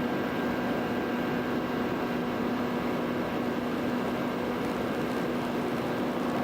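FPV drone's electric motors and propellers running at a steady throttle: an even hum with a held tone over propeller wash.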